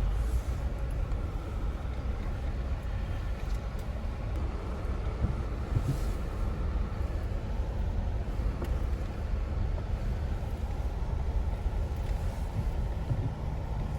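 Jeep engine running steadily with a low rumble, with a few faint ticks over it.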